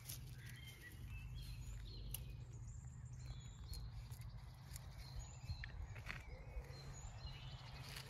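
Several wild birds singing, many short chirps and whistles overlapping, faint over a steady low rumble.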